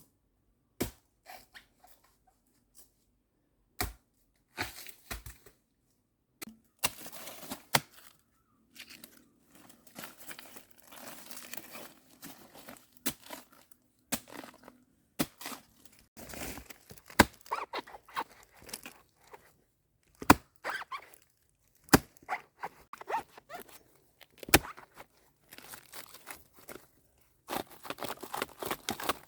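Scattered sharp knocks, several of them loud and single, with rustling and tearing noises in between, as of something being cut, torn and handled by hand.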